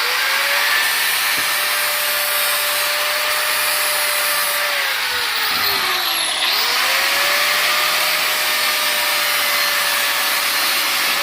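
Electric grinder starting up and grinding the edge of a steel lawnmower blade. The motor's pitch climbs as it spins up, holds steady, then sags twice as the disc is pressed into the blade, about five seconds in and again near the end.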